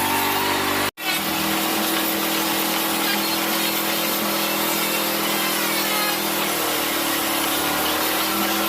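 Electric woodworking power tool running steadily while cutting wood, its motor pitch dipping slightly under load; the sound breaks off sharply for an instant about a second in.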